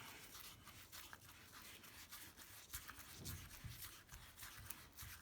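Faint rustling and light ticks of paper being handled and pressed down, close to near silence.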